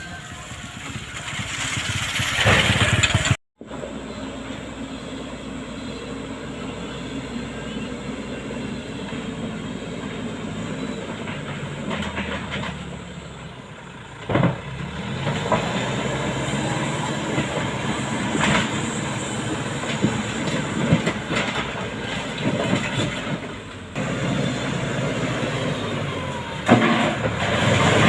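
Diesel engine of a loader running under load as it spreads dumped sand-and-gravel road fill, with occasional knocks. The sound breaks off for a moment a few seconds in.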